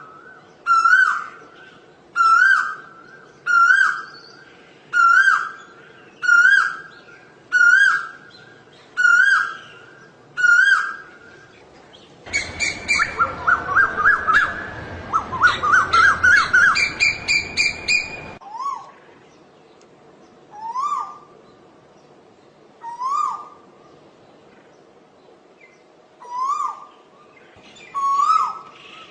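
Asian koel calling. A steady run of rising calls comes about one every 1.3 seconds. Midway there are about six seconds of fast, shrill, bubbling notes, and then the rising calls return more slowly, about one every two seconds.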